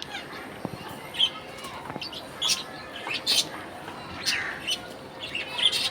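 Budgerigars chirping: short, high chirps at irregular intervals of about a second.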